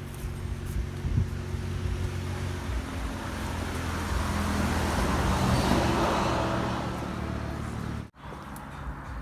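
A motor vehicle passing by, growing louder to a peak about halfway through and then fading, over a steady low hum. The sound cuts out abruptly for a moment near the end.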